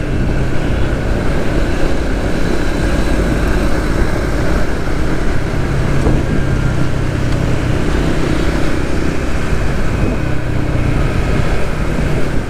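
Suzuki GSX-S150's single-cylinder four-stroke engine running at a steady speed while riding, under a constant rush of road and traffic noise.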